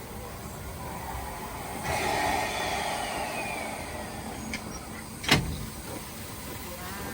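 Station sounds around a steam train at the platform: a rushing hiss swells about two seconds in, with a thin tone sliding down in pitch, then a single sharp bang a little after five seconds.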